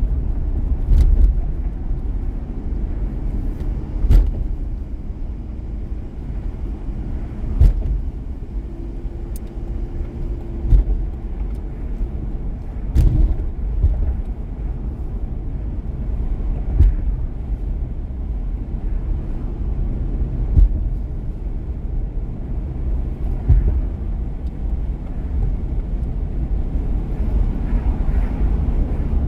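Car on the move: a steady low road rumble with occasional short knocks from bumps in the road.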